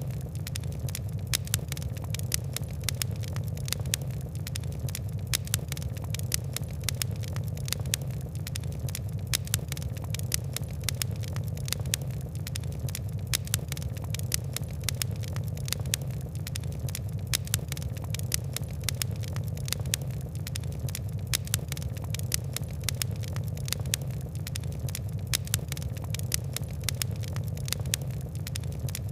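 Fire crackling: many quick, sharp ticks and pops over a steady low background of burning.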